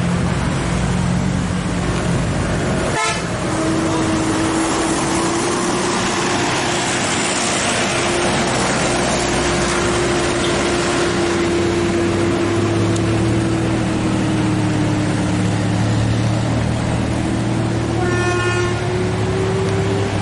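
Dump truck engines running hard under load on a steep uphill climb, with a steady whine held through most of it. A short horn toot sounds near the end.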